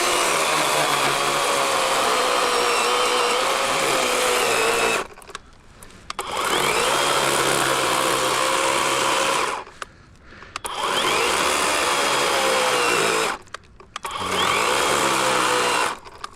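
Battery electric chainsaw (40-volt Worx WG384 with an 18-inch Oregon bar) run in four trigger pulls of a few seconds each, its motor pitch wavering as the chain cuts into a log, with short pauses between pulls. The battery is nearly flat and dies soon after.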